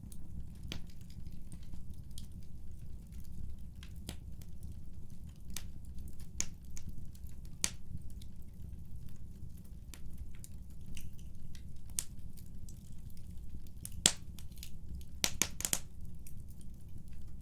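Wood fire crackling and popping over a low, steady rumble of flames. Near the end comes one loud sharp pop, then a quick cluster of pops.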